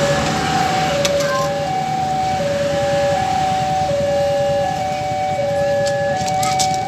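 Railway level-crossing warning alarm sounding: an electronic two-tone signal alternating steadily between a lower and a higher note, each held about two-thirds of a second, over a low background rumble.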